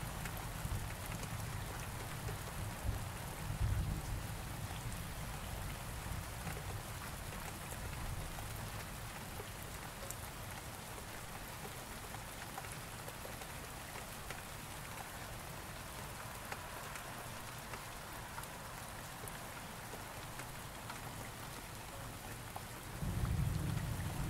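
Steady rain falling with an even hiss. A low thunder rumble dies away in the first few seconds, and another rumble starts near the end.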